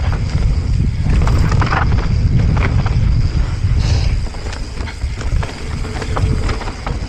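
Mountain bike riding fast down a dirt trail: wind rumbling on the camera's microphone and tyres rolling over dirt and rocks, with frequent sharp clicks and knocks as the bike rattles over rough ground.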